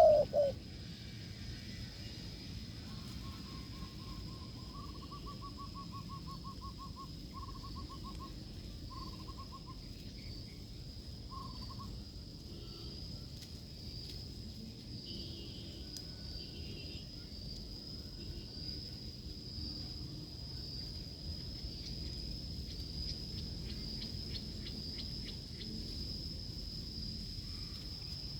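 The end of a loud dove coo right at the start, then a faint run of quick, evenly pulsed bird calls from about 3 to 12 seconds in. Under it all runs a steady high-pitched insect drone.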